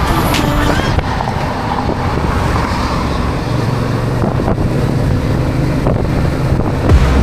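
Motorcycle running on the move, a steady low engine drone with wind rushing over the microphone; the engine note rises and grows stronger about halfway through.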